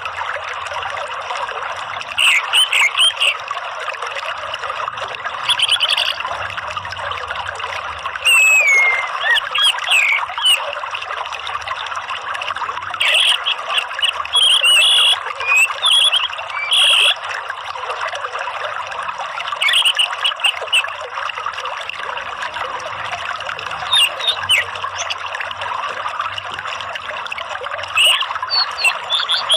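Orange-headed thrush (anis merah) singing in short warbling phrases every few seconds over a steady trickle of running water, a therapy/lure recording meant to set caged thrushes singing.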